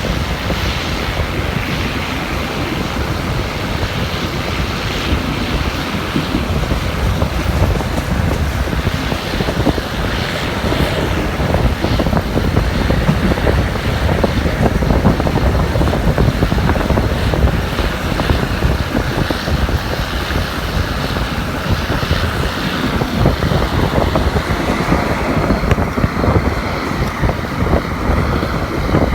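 Steady wind buffeting the microphone over the low running noise of a moving passenger train, heard from on board.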